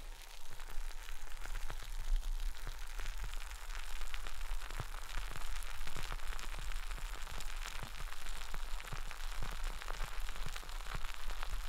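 Carbonated light beer fizzing close to the microphone: a dense, steady crackle of many tiny bubbles popping.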